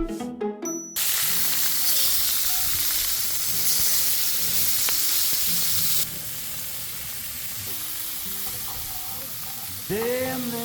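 Food sizzling on a grill: a steady hiss that drops in level about six seconds in.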